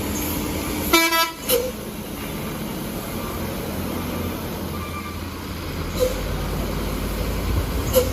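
A heavy vehicle's engine running steadily, with a short vehicle horn toot about a second in.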